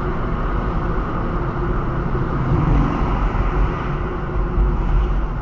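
Steady driving noise from a moving road vehicle: a continuous low engine and road rumble with a hiss above it.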